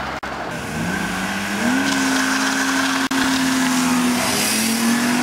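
BMW car engine revving hard under acceleration: the pitch rises about a second in and is held high and steady for a couple of seconds, then steps, with two brief dropouts in the sound.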